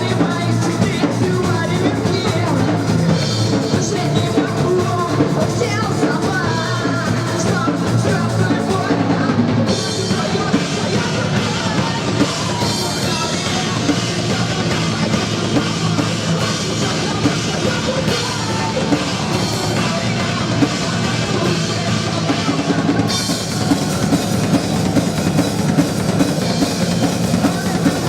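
Live rock band playing loudly: drum kit with kick drum, bass and guitars. The cymbals drop out for a stretch in the middle and come back near the end.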